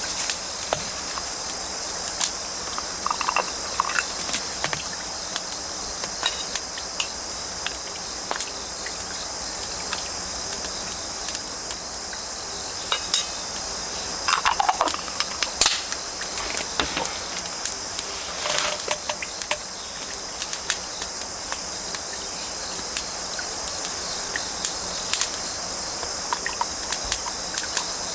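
Steady chorus of autumn crickets and other insects chirring, with scattered sharp crackles and pops from burning firewood throughout.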